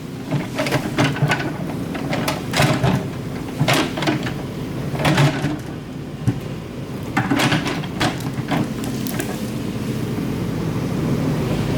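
Excavator engine running steadily, with short noisy scrapes or clanks about every one to two seconds.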